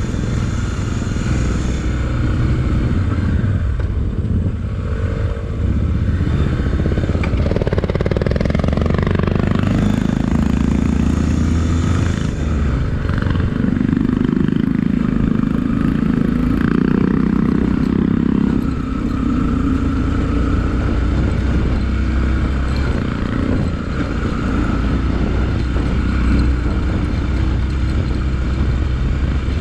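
Honda XRE300 single-cylinder four-stroke motorcycle engine running under way, its revs rising and falling.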